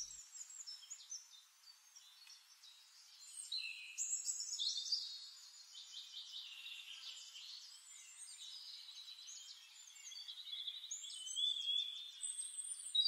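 Small birds singing and chirping, a faint mix of high trills and short gliding whistles, busier about four seconds in and again near the end.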